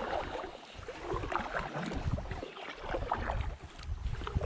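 Water splashing and sloshing irregularly around a kayak hull, with wind buffeting the microphone.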